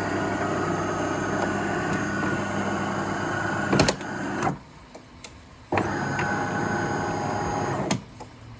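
De'Longhi Magnifica bean-to-cup coffee machine running through its start-up cycle: a steady motor hum for about four seconds, a stop, then another run of about two seconds.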